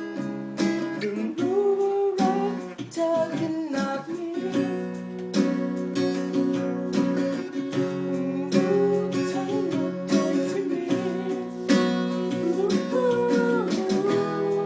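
Acoustic guitar strummed in a steady rhythm, with a voice singing a song over it.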